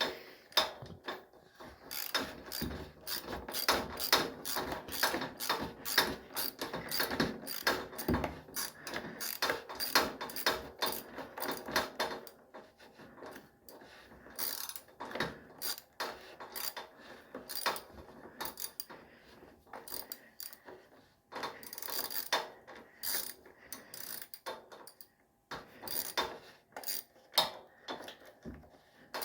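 Hand socket ratchet clicking in runs of quick strokes, broken by short pauses, as nuts on the generator's carburetor mounting are snugged up.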